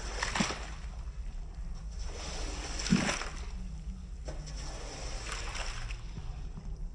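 Water sloshing and splashing in three separate swishes during a rug wash, over a low steady hum.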